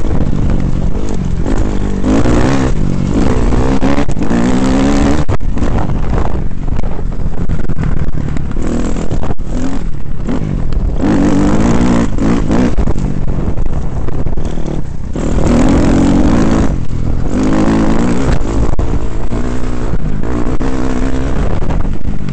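KTM 250 XC-F dirt bike's single-cylinder four-stroke engine under way on a trail, revving up and easing off again and again as the pitch climbs and drops.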